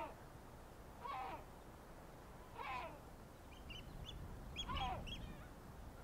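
Birds calling: a harsh, falling call repeated four times, a second or two apart, with a run of short high chirps from another bird around the last call.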